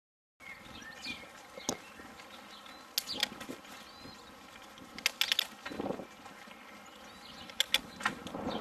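Outdoor ambience through the action cam's microphone, starting abruptly about half a second in: several sharp clicks and knocks in small clusters, with a few faint bird chirps.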